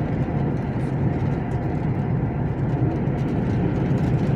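Steady engine hum and tyre and road noise inside a truck's cab while driving at a constant speed.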